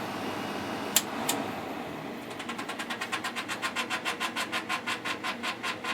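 Two clicks of a window air conditioner's control switch being turned off, then the unit's condenser fan blade scraping on something once per turn: a rhythmic rubbing tick, about six a second, that slows slightly as the fan winds down.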